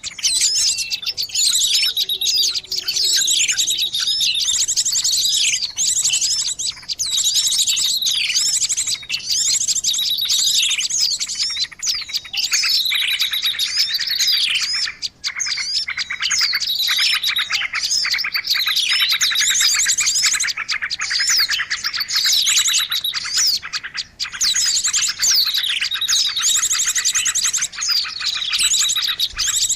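Dense chorus of many small songbirds calling at once, a small-bird lure (pikat) recording. Rapid trills, quick chirps and falling whistled notes overlap without pause.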